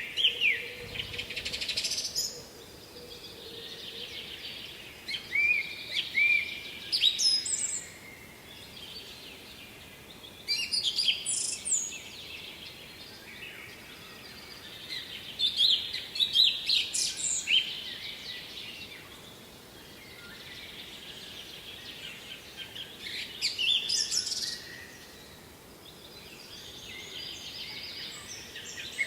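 A songbird sings short phrases over and over, each a second or two long, with a pause of several seconds between them, over a steady background hiss.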